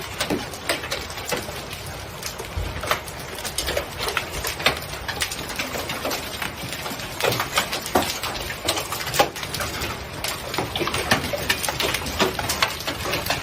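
Hailstones pelting hard surfaces: a dense, irregular clatter of many small impacts, keeping up without a break.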